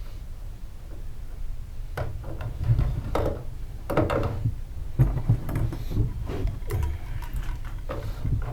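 Irregular knocks and scrapes of hands-on work in a plywood boat's interior, starting about two seconds in, over a steady low rumble.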